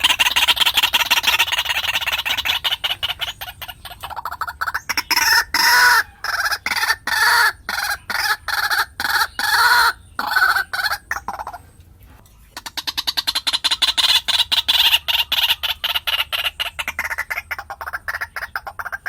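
White-breasted waterhen calling: a fast run of rapid repeated notes, then from about five seconds in a louder series of lower notes about two a second, which breaks off briefly near twelve seconds before the fast calling starts again.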